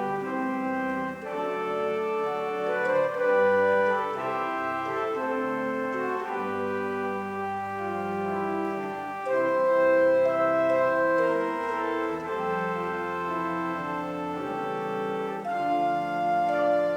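Pipe organ playing a slow prelude of sustained chords that change every second or so.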